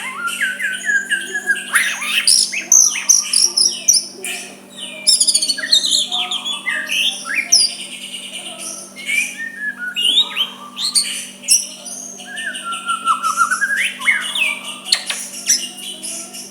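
White-rumped shama (murai batu) singing a varied, continuous song of clear whistled notes, rising and falling slides, quick note runs and short clicky calls, over a faint steady hum.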